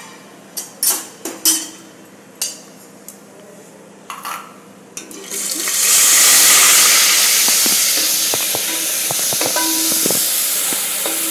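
A few metal clinks of kitchen utensils, then about five seconds in a sudden loud sizzle as wet onion-garlic paste hits hot oil in a pressure cooker. The sizzle goes on as a steady frying hiss, with small clicks of a slotted spoon stirring.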